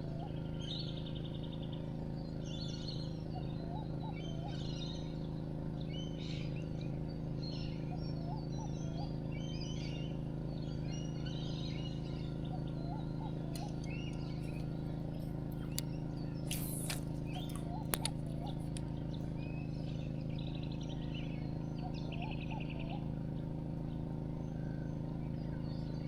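Birds calling and chirping over a steady low hum, with one short lower call coming back every two or three seconds. A few sharp clicks about two-thirds of the way through.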